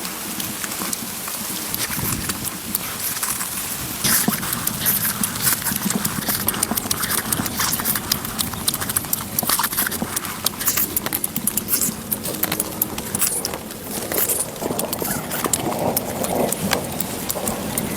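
Busy, irregular tapping and knocking: many sharp clicks a second, growing denser about four seconds in.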